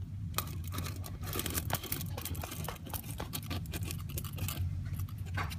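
Irregular small clicks, taps and rustles of toy figurines and a toy bucket being handled and moved across a table set, over a steady low hum.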